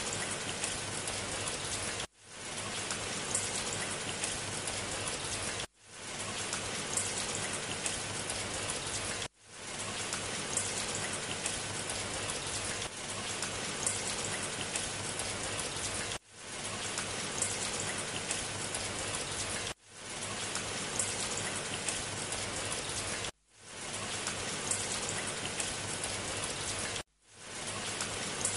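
Steady hiss of heavy rain, broken by a short drop-out that fades straight back in about every three and a half seconds.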